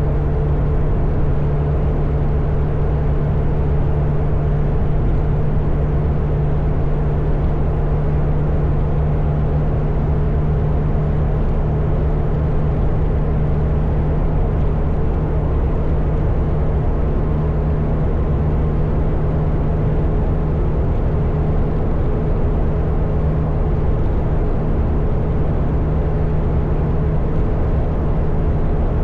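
Motorcycle engine running at a steady cruising speed on the open road, a constant drone with an even rush of wind and road noise and no change in pace.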